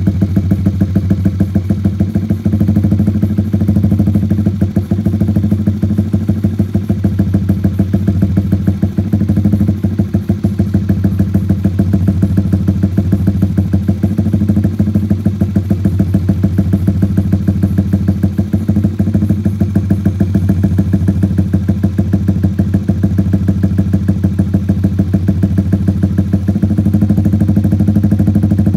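Honda CBR150R single-cylinder engine idling through a CLD Monster Race aftermarket exhaust with the dB killer removed: a steady, even pulsing exhaust note that gets slightly louder near the end.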